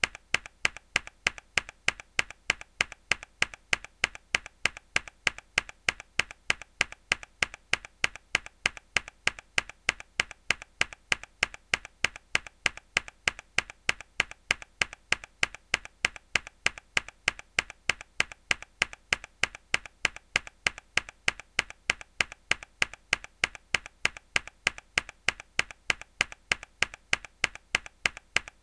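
One mechanical keyboard key pressed hard over and over, an evenly spaced click about three times a second.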